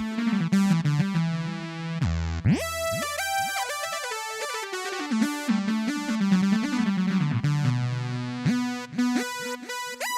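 Casio CT-X700 electronic keyboard playing a synthesizer sound, a busy melodic line with several quick downward pitch sweeps.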